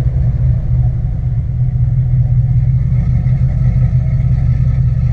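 Engine of a cammed Chevrolet Silverado pickup running as the truck drives along, a steady low drone.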